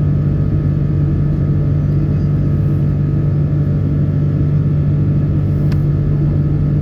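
Steady cabin noise inside a Boeing 777-300 airliner in flight: an even, deep rumble of engines and airflow with a steady low hum.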